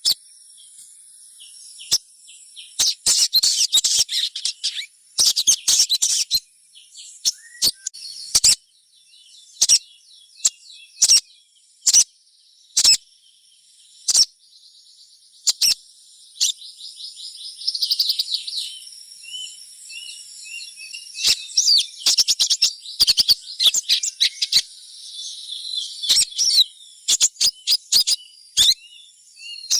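Spiderhunter (sogon) calling in bursts of rapid, high-pitched chirps and twittering, with many sharp loud clicks among them. A steady high buzz runs underneath.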